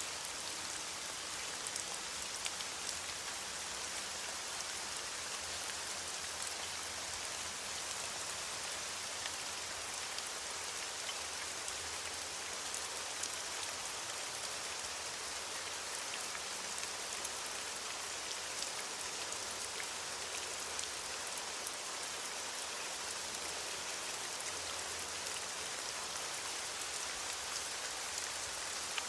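Steady rain falling on leaves: an even hiss with many small, crisp drop ticks.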